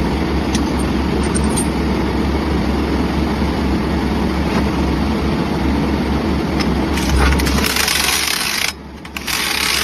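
A heavy engine running steadily with a low drone. Near the end it gives way to loud bursts of hiss.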